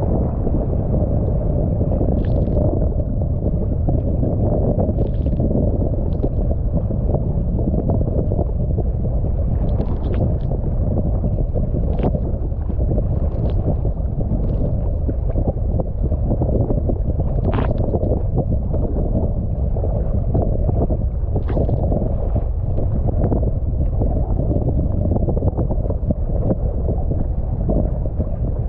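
Heavy wind buffeting the microphone on a kayak in rough, choppy water, with short splashes of water against the hull and paddle every few seconds.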